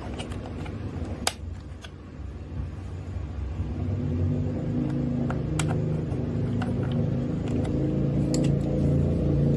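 Small electric motor of a mini RC toy vehicle whirring steadily, getting louder about four seconds in, with scattered light clicks.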